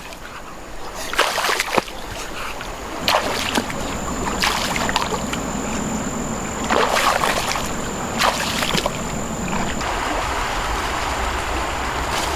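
Water splashing and sloshing in irregular bursts over a steady rush of water.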